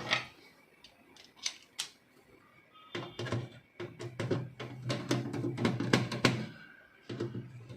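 Sharp clicks and knocks of plastic printer parts and screws being handled and fitted by hand. A steady low hum runs under a quick run of clicking through the middle of the stretch.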